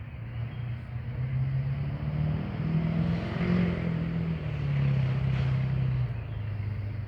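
A motor vehicle driving past, its engine note rising toward the middle and then falling away.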